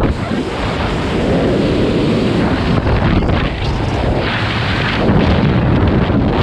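Wind buffeting the microphone: a loud, rough, steady rushing noise.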